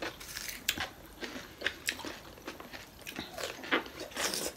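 Close-up eating sounds: irregular crisp crunches and chewing as raw cucumber slices are bitten and chewed, with the loudest crunch about four seconds in.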